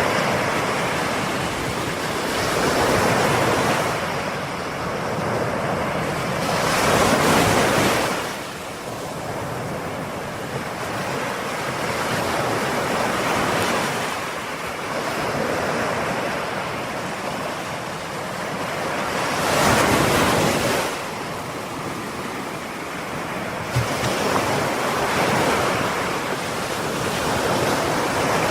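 Ocean waves breaking on a shore, a steady wash of surf that swells into louder breakers every several seconds, with some wind on the microphone.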